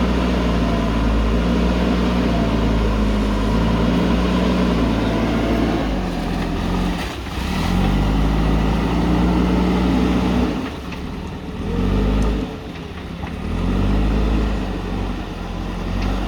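JCB backhoe loader's diesel engine running hard at high revs, then dropping and surging back up several times in the second half as the machine works.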